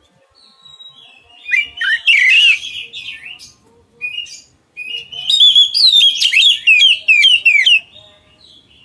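Oriental magpie-robin (kacer) singing: first a scratchy jumble of notes, then a run of loud, repeated downward-sliding whistles, about three a second.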